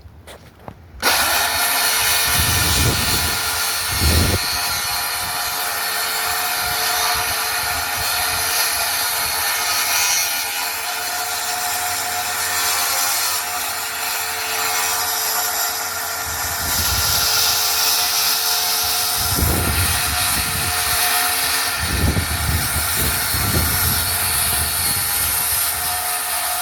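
Electric power saw cutting a sheet of plywood: it starts about a second in and runs steadily through one long cut with a few low knocks, then stops.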